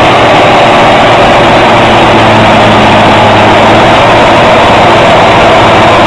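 Heavy engine running steadily and loud, with a constant low hum and no change in pitch.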